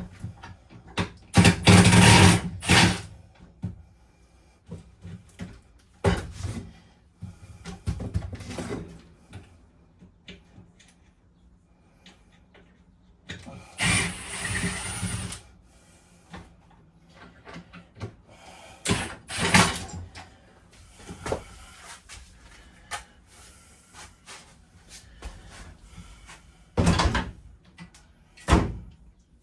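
Irregular bangs, knocks and scraping of interior fittings being pried and pulled loose during RV teardown, with a longer scrape about halfway through and sharp knocks near the end.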